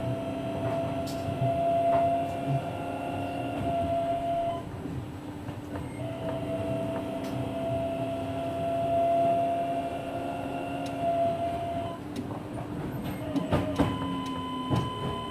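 Kanazawa Seaside Line 2000 series rubber-tyred automated guideway train heard from on board: the Toyo IGBT-VVVF inverter's steady whine over the running rumble. The whine cuts out about four and a half seconds in and returns a second and a half later. Near the end come a few sharp knocks, and after them a higher whine starts along with a tone gliding down.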